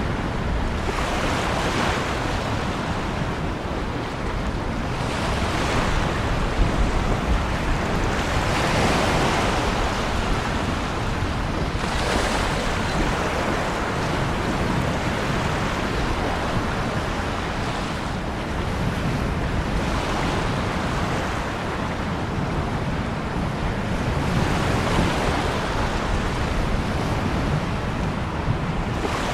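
Ocean surf: waves breaking and washing in as a continuous wash of noise that swells every few seconds.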